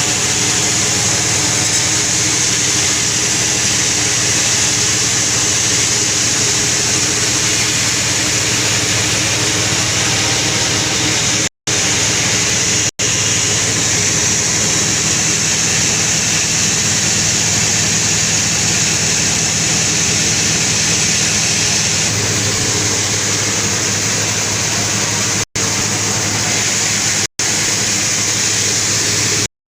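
Sawmill saw running steadily as it cuts through a very large albizia log over 2 m across, under heavy load. There is a continuous low hum under a loud hiss of sawing, broken by a few brief dropouts.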